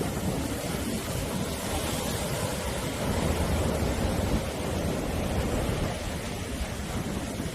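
Sea surf: waves breaking and washing up the shore in a steady rush with a low rumble, swelling a little about three seconds in.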